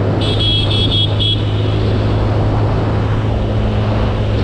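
Motorcycle running at speed, its engine drone mixed with rushing wind. A horn gives four quick short beeps in the first second and a half.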